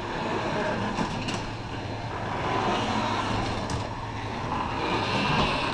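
A steady mechanical running noise with a low hum, and a few faint clicks or creaks.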